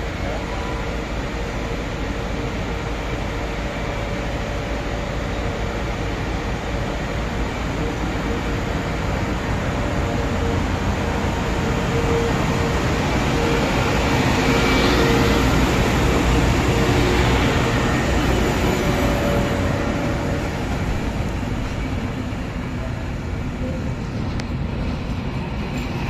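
A train passing through on the line, its rolling noise building gradually to its loudest about fifteen seconds in and then easing off.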